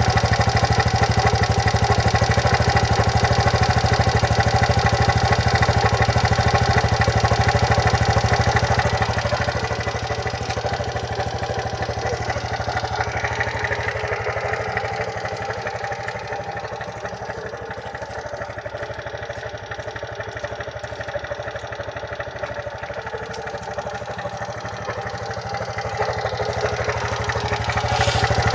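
TVS Jupiter 110cc scooter's single-cylinder engine idling steadily. It is louder at first, quieter from about a third of the way in, and louder again near the end. The owner presents this running noise as a sound problem.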